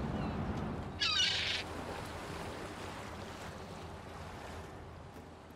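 A short bird call of a few quick falling notes about a second in, over a steady wash of sea-like noise that slowly fades away.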